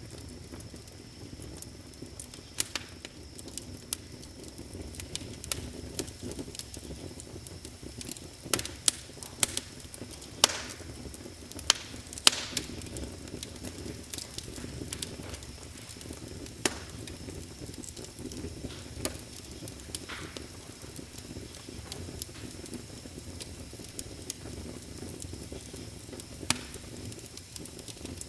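Wood fire in a fireplace crackling: irregular sharp pops and snaps over the steady low rumble of the flames, with a run of louder pops about eight to twelve seconds in.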